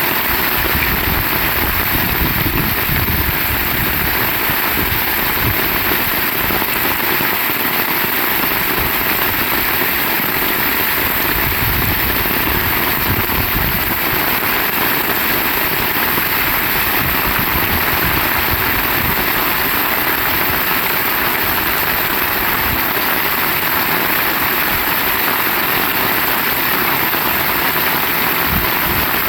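Heavy rain falling in a steady, even hiss, with an uneven low rumble underneath.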